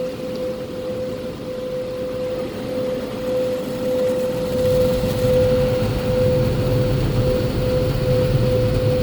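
Automatic car wash machinery, heard from inside the car: a steady hum at one constant pitch, with a low rumble that swells about halfway through and grows louder.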